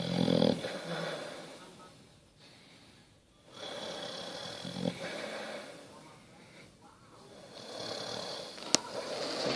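Basset hound snoring in its sleep: a loud snore ending about half a second in, then two quieter, drawn-out breaths. A single sharp click comes near the end.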